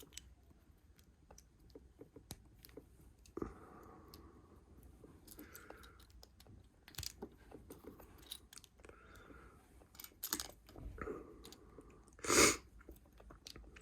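Plastic Lego bricks being handled and pressed together: scattered small clicks and rattles, with a louder brief rustle about twelve seconds in.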